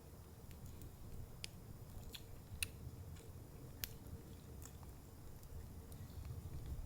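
A handful of faint, sharp crackles and ticks, about five or six spread irregularly over several seconds, above a low, steady rumble.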